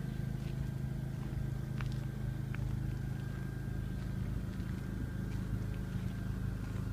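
Engine running steadily: a low, even hum with a faint high steady whine above it and a few light clicks scattered through.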